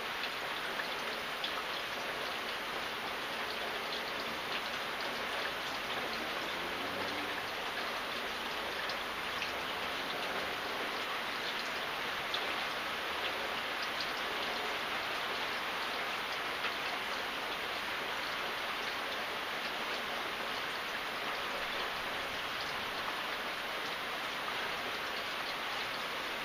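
Steady rain falling, with many individual drops ticking on a surface through the even hiss.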